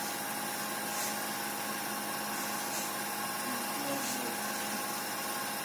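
Steady machine hum with a few faint ticks about a second, three seconds and four seconds in.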